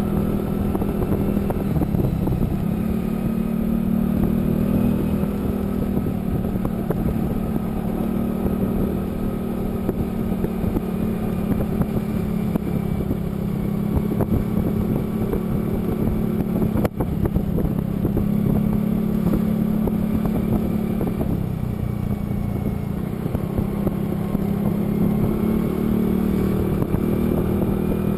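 Motor vehicle engine running steadily at cruising speed, with road and wind noise and small rises and falls in engine pitch. There is a brief click about halfway through.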